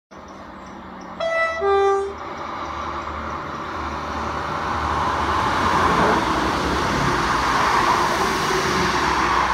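Diesel multiple-unit passenger train sounding its two-tone horn about a second in, a short high note then a lower one. Its engine and wheels on the rails then grow steadily louder as it approaches and runs beneath.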